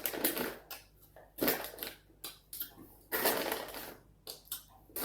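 Close-up chewing and wet mouth noises of someone eating soft processed chicken bites, coming in irregular bursts.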